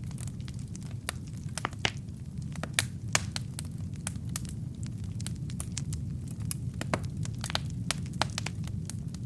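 Wood fire burning in a fireplace: logs crackling and popping irregularly over a low steady rumble of the flames, with a few louder pops in the first few seconds.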